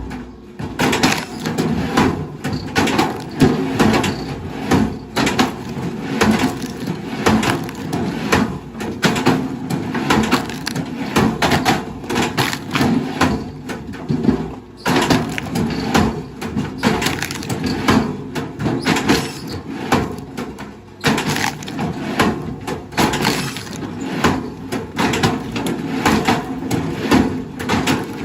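Wood cracking, crunching and splintering in quick, irregular snaps over a steady low drone, with two short breaks about halfway through and again a little later.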